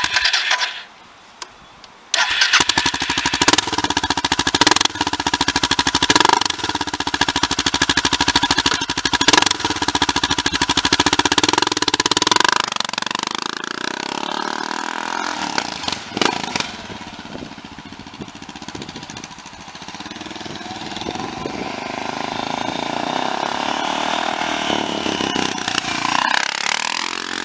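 Suzuki DR650's single-cylinder engine, breathing through a Delkevic tri-oval stainless steel slip-on silencer with the baffle in, cranks briefly, catches about two seconds in and runs with sharp throttle blips. About halfway through it settles to a lower idle, and the revs rise and fall gently near the end.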